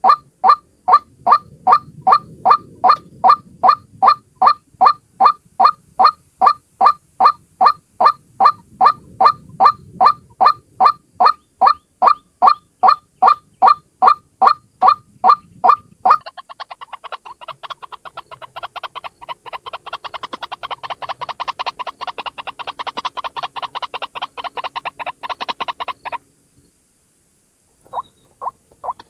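White-breasted waterhen calling: a steady series of loud, evenly repeated notes, about three a second. About sixteen seconds in, these give way to a faster, denser chattering run lasting some ten seconds. After a short pause the regular notes start again near the end.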